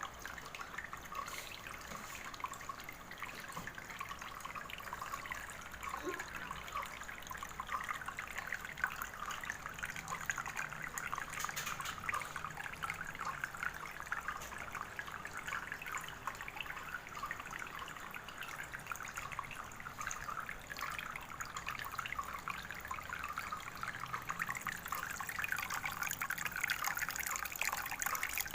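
Water trickling steadily over a small model waterfall.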